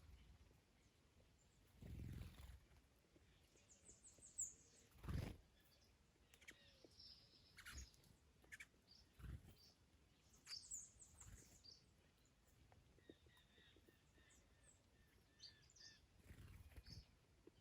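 Faint garden birdsong: scattered high chirps and a couple of quick trills, with a few brief low gusts of wind buffeting the microphone.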